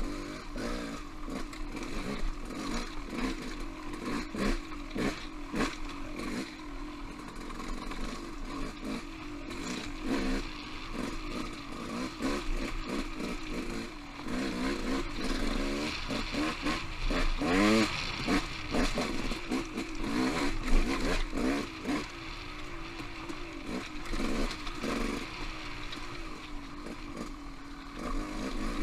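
Off-road motorcycle engine revving up and down as it rides singletrack, the revs climbing hard for a few seconds past the middle, with knocks and rattles throughout.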